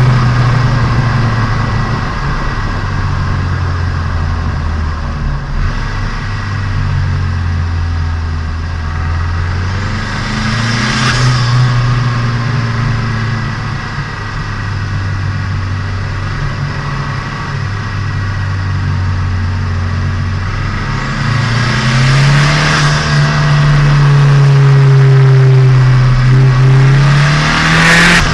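Turbocharged Nissan Micra engine running under way during break-in, heard from inside the car. Its note drops to a lower steady pitch a few seconds in, climbs again around ten seconds, and rises higher over the last several seconds, with brief rushes of hiss.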